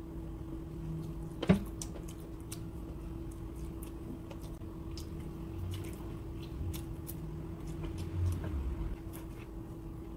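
Close-miked eating sounds: a person chewing chicken adobo with rice eaten by hand, with wet mouth noises and small lip-smacking clicks. A sharp click about a second and a half in, over a steady low hum.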